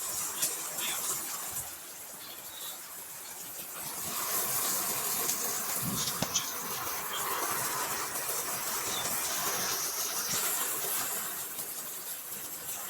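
Heavy rain falling steadily, a dense even hiss with a few faint ticks of drops, growing a little louder about four seconds in.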